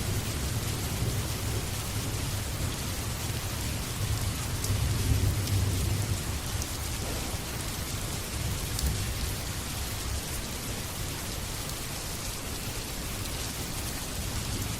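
Steady rain, with a deep low rumble that swells about four to six seconds in and then settles.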